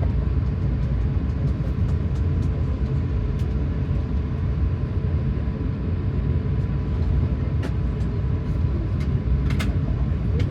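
Steady low rumble of cabin noise inside an Airbus A380-800 before takeoff, with a faint steady whine over it and a few small clicks near the end.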